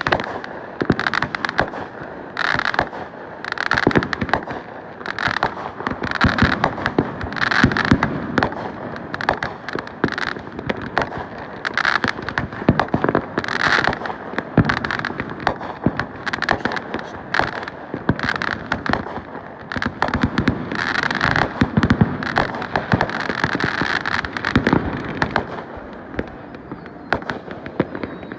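Fireworks going off continuously: a rapid barrage of bangs and crackling, many reports a second with no pause.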